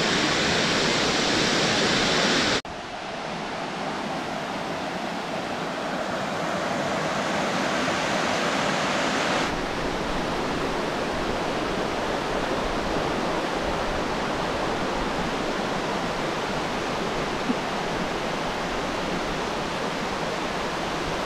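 Steady rush of a waterfall's falling water. The sound changes abruptly about two and a half seconds in, becoming duller, and shifts again about nine and a half seconds in.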